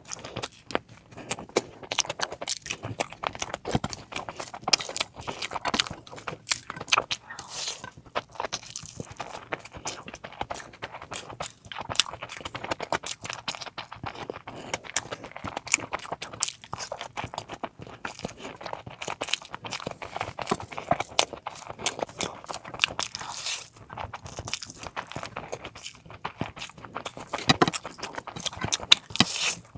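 Close-miked eating sounds from a plate of curries: steady chewing with frequent wet smacks and crunches, a little louder near the end.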